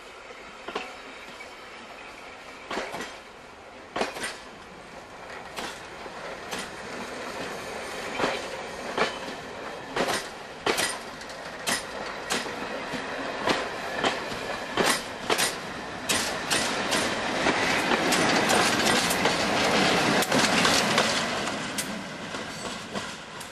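Railway coaches rolling past close by, their wheels clicking sharply over the rail joints. The rolling noise swells to its loudest near the end as the Class 47 diesel locomotive comes by.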